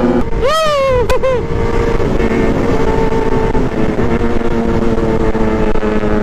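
Superbike engine running at a steady speed while riding, its note holding level. A short whooping shout rises and falls about half a second in, and another starts right at the end.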